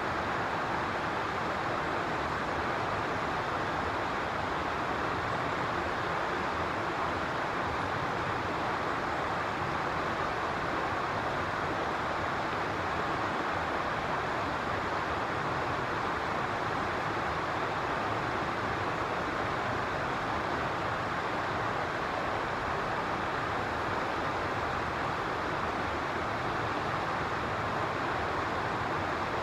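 Steady, even rushing noise that does not change, with no distinct calls or events.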